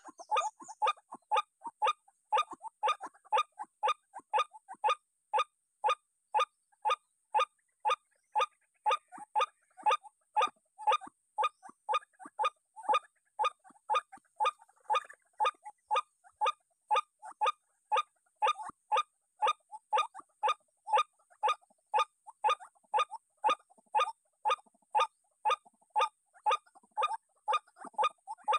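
White-breasted waterhen calling: a long, even run of short, harsh notes, about two to three a second.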